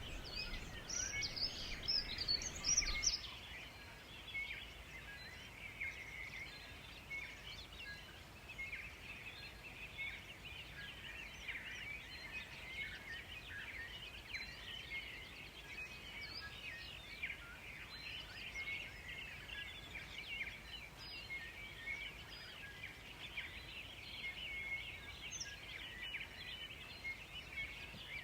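Forest birds chirping and singing, many short overlapping calls throughout, with a louder flurry of higher-pitched calls in the first three seconds.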